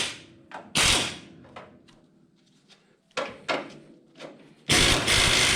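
Impact wrench run in short bursts on shock-tower bolts: one about a second in, two brief ones around three seconds, and a longer run of about a second and a half near the end.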